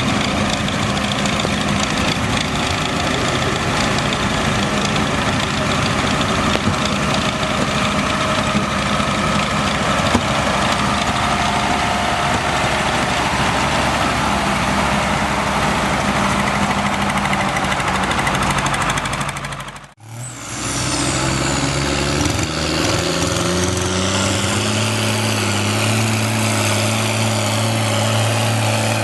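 Tractor engine running steadily under load. About two-thirds of the way through the sound cuts out briefly, then a tractor engine returns and climbs in pitch over a few seconds before holding at higher revs.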